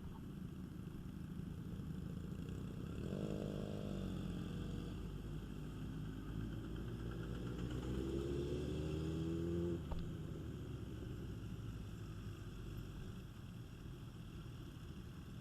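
Motorcycle engines running at low speed with a steady low rumble. One engine's note drops briefly about three seconds in. From about six seconds another note climbs steadily as it accelerates, then cuts off sharply with a click just before ten seconds.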